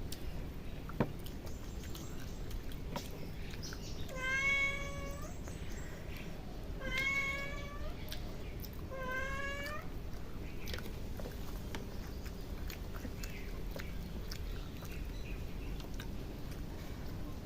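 A cat meowing three times, each call about a second long with a slight upward bend in pitch, a couple of seconds apart.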